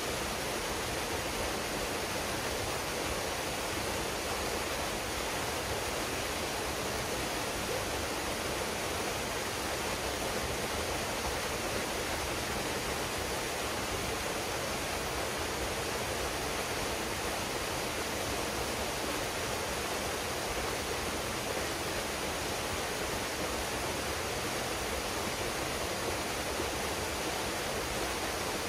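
Waterfall pouring steadily into a pool: an even, unbroken rush of water.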